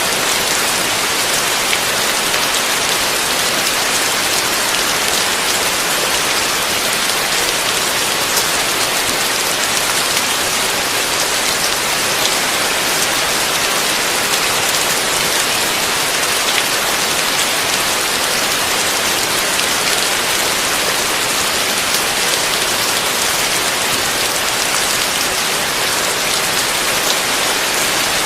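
Heavy rain falling steadily, an even hiss with fine pattering of drops. The level does not change and there is no thunder.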